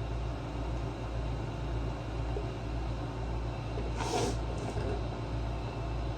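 Steady low hum and hiss of the workshop background, with one short noisy clatter about four seconds in and a fainter one just after.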